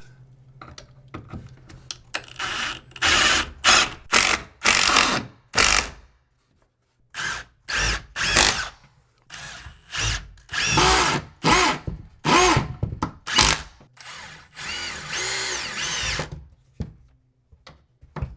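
Power drill driving a screw into wood blocking in a series of short trigger bursts, the motor's pitch rising and falling as it spins up and stops.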